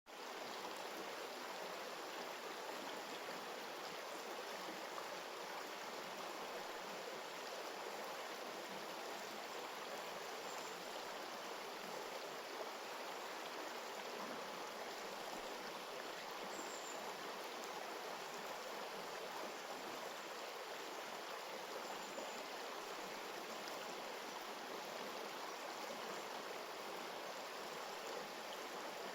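Stream water flowing, a steady, unbroken rush.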